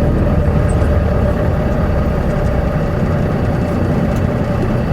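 Semi truck's diesel engine running steadily at low speed in slow traffic, heard from inside the cab, with a constant hum above the low engine note.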